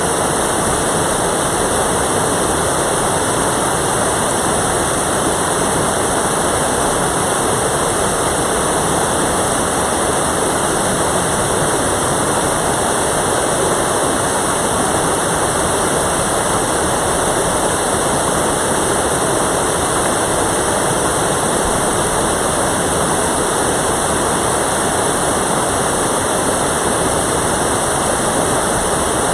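Mountain valley stream: water rushing over rocks in a steady, loud, unbroken rush.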